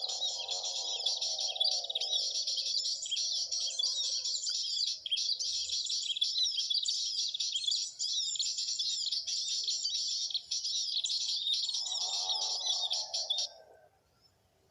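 Dense, continuous high-pitched bird chirping, with a lower warbling call at the start and again near the end; it all cuts off suddenly about a second before the end.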